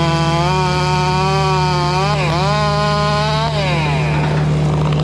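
Chainsaw running at full throttle while cutting, the engine note sagging briefly about two seconds in, then the throttle is released and the saw winds down about three and a half seconds in. A steady low engine drone, typical of the mini excavator working alongside, runs underneath.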